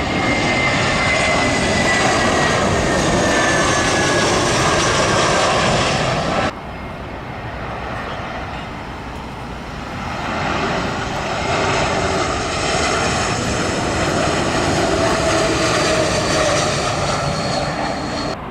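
Jet airliner passing low overhead on landing approach, its engine noise loud with a whine falling in pitch as it goes by; the sound cuts off abruptly about six seconds in. A second airliner then builds up and passes overhead with another falling whine, cut off just before the end.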